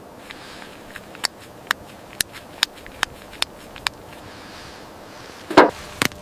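Footsteps: a run of sharp, evenly spaced steps, about two a second, then a louder thump and a sharp knock near the end.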